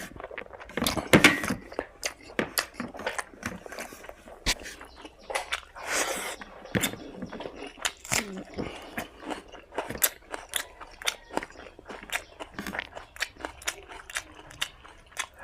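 A person chewing and smacking mouthfuls of spicy mutton fat with rice and gravy: short irregular clicks and smacks, a few each second.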